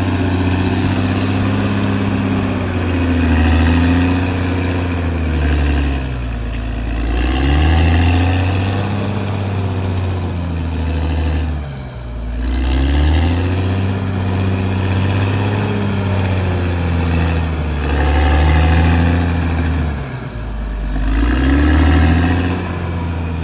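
Caterpillar D6R XL bulldozer's diesel engine working under load, its pitch rising and falling again and again every few seconds, with two sharp dips midway and near the end.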